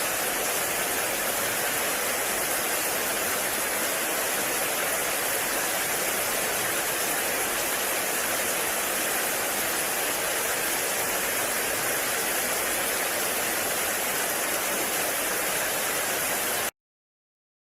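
Heavy rain falling steadily, an even hiss with no breaks. It cuts off suddenly a second before the end.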